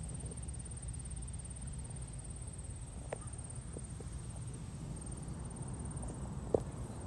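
Wind rumbling on the microphone outdoors, with a few faint short clicks and a thin steady high-pitched tone.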